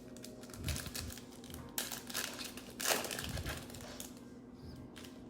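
Plastic wrapper of a Mosaic football trading-card pack crinkling as it is handled and torn open. It comes as a run of rustles over the first three and a half seconds, loudest about three seconds in.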